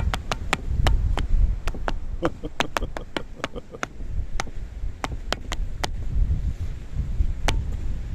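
High-heeled shoes clicking on hard ground as someone walks, a string of sharp irregular taps, with heavy wind rumbling on the microphone.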